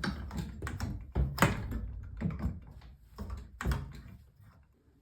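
A run of knocks, taps and rattles from plumbing parts and tools being handled and worked on, dying away near the end.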